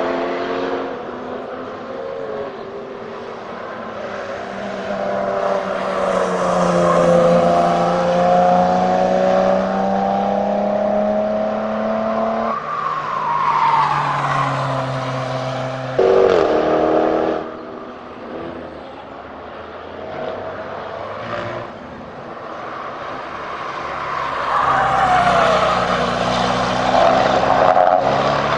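Car engines driving on a race track: a vintage Volkswagen Type 2 (T1) van's air-cooled flat-four running at steady revs, its note slowly rising and falling. The sound changes abruptly twice, and near the end a different, sportier car's engine rises in revs.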